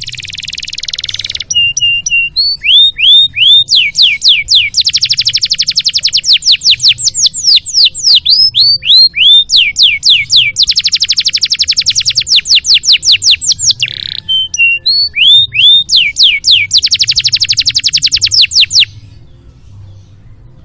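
Domestic canary singing: long, rapid trills of repeated notes alternating with runs of down-slurred whistles, the song breaking off near the end, over a faint low hum.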